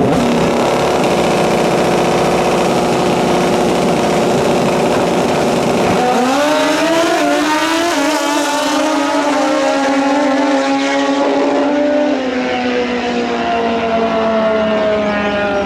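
Drag-racing motorcycle engines running steadily at high revs, then about six seconds in a sudden change as the bikes launch: the engine pitch climbs in steps through the gears, then slowly falls near the end as they pull away down the track.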